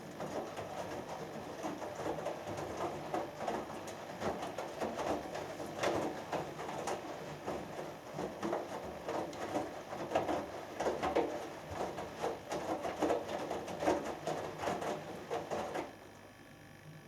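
Hoover Dynamic Next washing machine in its main wash: the drum turns and laundry tumbles and sloshes in the water for about sixteen seconds, then the drum stops for a rest.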